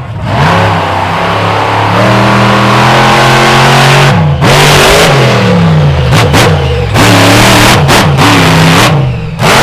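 Monster truck engine at full throttle: held at high revs for about four seconds, then blipped up and down several times in quick surges.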